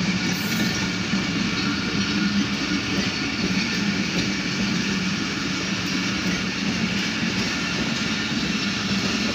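Pakistan Railways passenger coaches rolling past on the track: the steady running noise of steel wheels on the rails, holding an even level throughout.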